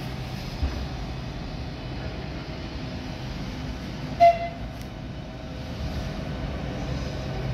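Class 395 Javelin electric high-speed train running slowly into the platform with a steady low rumble. A single short, loud horn toot sounds about four seconds in.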